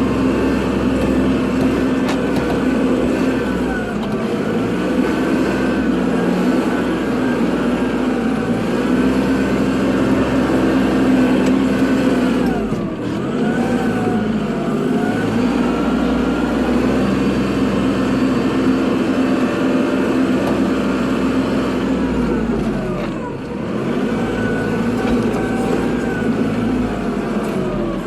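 Kubota tractor's diesel engine running steadily while plowing snow. Its pitch and level dip briefly and recover twice, about halfway through and again near the end.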